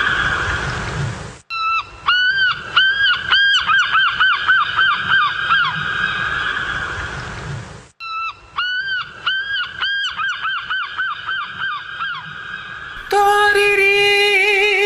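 Rapid, repeated honking bird calls, about three or four a second, in stretches that cut off abruptly and start again. Near the end a lower, steady, wavering held tone takes over.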